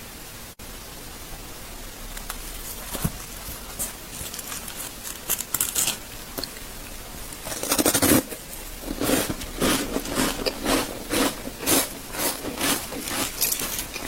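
A person biting into ice and chewing it with crisp crunches. A few faint cracks come first, then a loud bite about eight seconds in, followed by steady crunching at about two chews a second.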